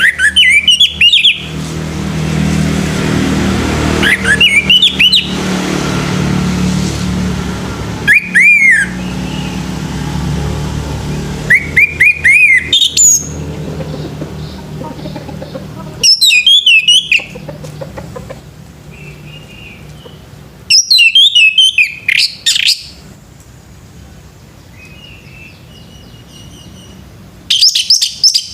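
Male orange-headed thrush singing: seven loud, short phrases of quick rising and falling whistles, one every four seconds or so. A low rumble sits under the first half.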